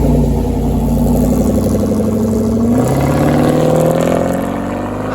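Car engine accelerating hard as it drives off. The revs climb, drop at a gear change about three seconds in, then climb again.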